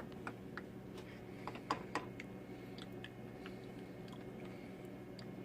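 Light clicks and taps of a spoon and cup being handled, with a cluster of louder ones about two seconds in, over a low steady hum.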